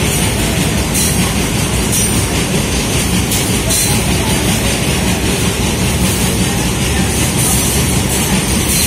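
Freight train of open-top wagons running through at speed close by, a loud, steady rumble of the wagons' wheels on the rails.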